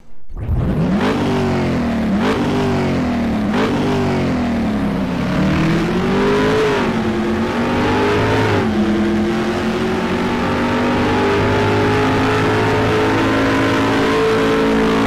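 Car engine revving: three sharp throttle blips whose pitch jumps up and sinks back, two longer climbs, then a steady high rev held from a little past halfway.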